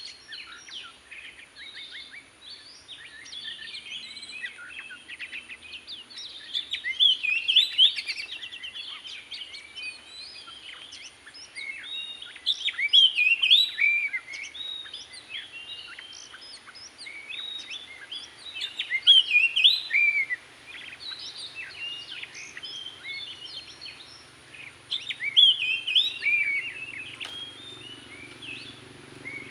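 Oriental magpie-robin singing a rich, varied song of whistled phrases, with louder stretches about every six seconds and quieter chirping between. This is the song of the bird being trapped or of the lure.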